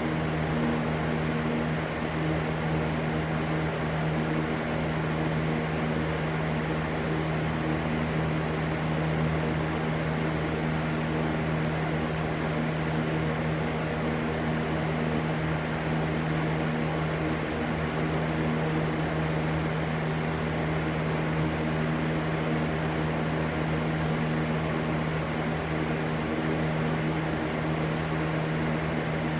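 Steady white noise with a constant low motor hum underneath, as from an electric fan running at an even speed.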